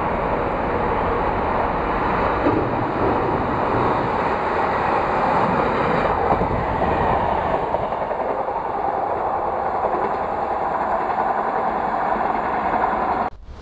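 Network Rail Class 950 yellow two-car diesel track-recording unit passing on the line, its engine and wheels running steadily as it comes up, goes by close and draws away. The sound cuts off abruptly near the end.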